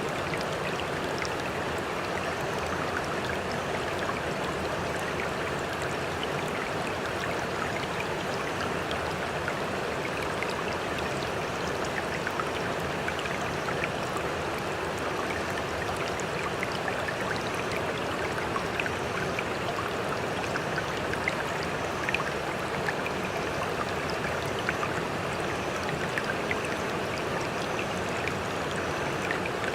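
Water running and lapping steadily, with many small splashes and drips and no rise and fall of breaking waves.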